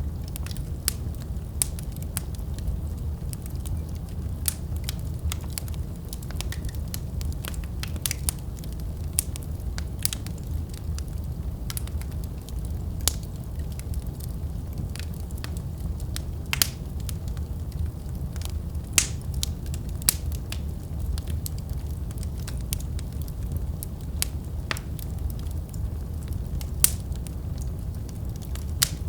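Fire burning in a fireplace: a steady low rumble with irregular sharp crackles and pops, a few of them louder than the rest.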